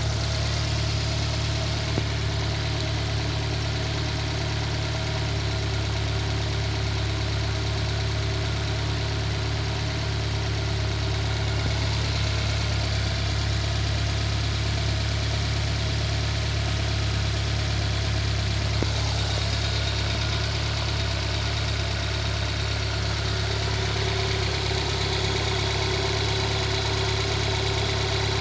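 Nissan Primera P11's 1.6-litre 16-valve twin-cam four-cylinder engine (GA16DE) idling steadily, heard from the open engine bay.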